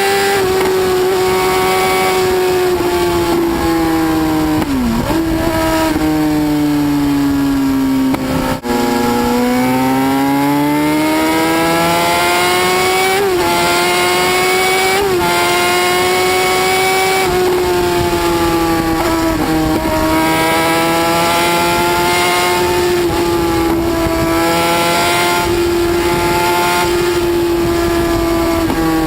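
High-revving motorcycle engine, a loud sustained engine note held high. The pitch sags for a few seconds and climbs back, with a brief click about eight and a half seconds in.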